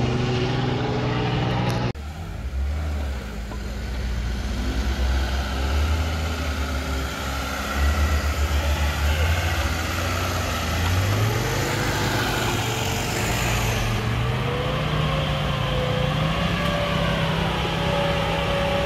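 Off-road car engine running, the sound changing abruptly about two seconds in, then revving with its pitch climbing in steps from about halfway through.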